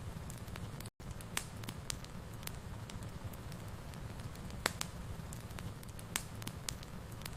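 Wood fire burning in a fireplace: a steady low rumble of flame with scattered sharp crackles and pops every second or so. The sound cuts out completely for a split second about a second in.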